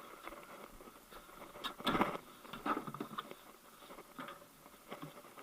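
Plastic air filter housing being handled: scattered clicks and rustling as the air box is opened and the filter element is lifted out, with a louder rustle about two seconds in.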